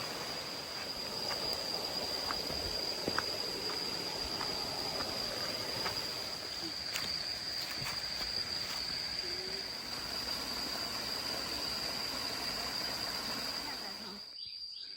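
A steady rush of falling water from a small jungle waterfall, with insects droning in one steady high tone over it. The rush drops away near the end.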